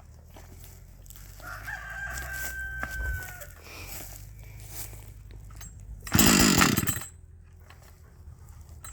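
A Husqvarna 555 two-stroke chainsaw is pull-started once, a burst lasting under a second about six seconds in. The engine turns over without catching. Earlier, a rooster crows once in the background.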